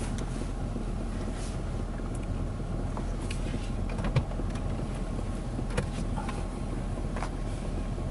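Car engine idling steadily, a low even hum heard from inside the car, with a few faint clicks.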